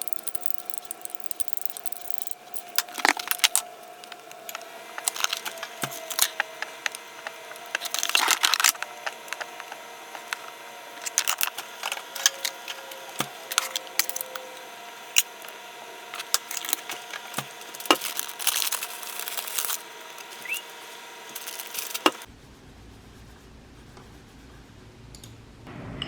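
Small objects being handled: irregular clicks, taps and rustling, over a faint steady hum, until they stop abruptly near the end.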